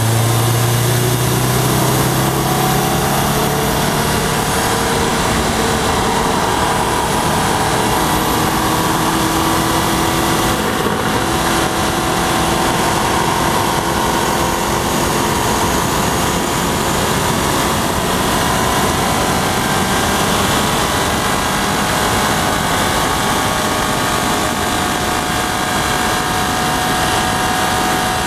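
Subaru WRX's turbocharged 2.5-litre flat-four running hard on a race track, its pitch rising and falling slowly with speed. A strong low tone in the first few seconds fades out, over a constant rush of wind and road noise.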